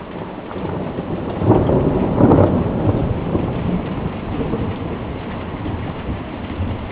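Thunder rumbling, swelling to its loudest about two seconds in and rolling away slowly, over steady rain.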